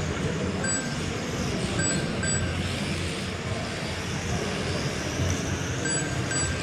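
Several electric RC trucks racing together on a carpet track, their motors whining up and down in pitch as they accelerate and brake. Short electronic beeps from the lap-counting system sound a few times as cars cross the line.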